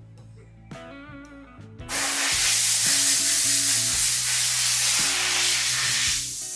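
A steady, loud hiss of spray or escaping air starts about two seconds in and lasts about four seconds, over background music.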